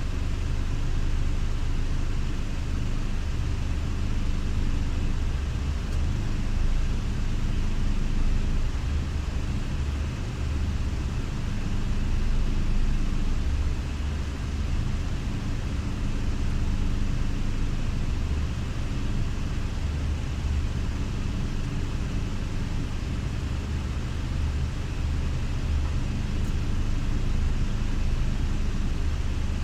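Scania Irizar i6S coach's diesel engine running at low revs while the coach is manoeuvred in reverse: a steady low drone that swells a little and eases off every few seconds.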